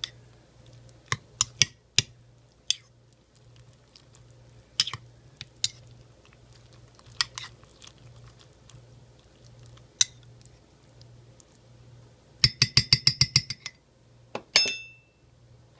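A spoon stirring thick risotto in a ceramic mug: scattered clicks and scrapes of the spoon against the mug. About twelve seconds in, a quick run of about ten ringing clicks lasting about a second, then one more ringing clink.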